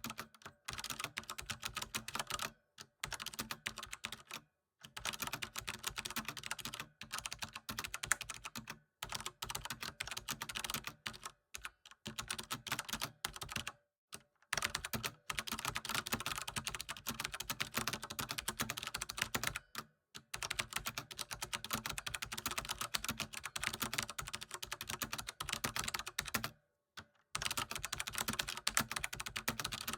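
Computer keyboard typing: rapid, continuous key clicks in bursts, with brief pauses every few seconds.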